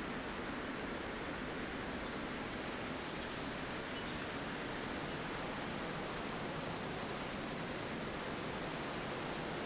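Wind blowing steadily through forest trees, an even, unbroken noise with no rise or fall.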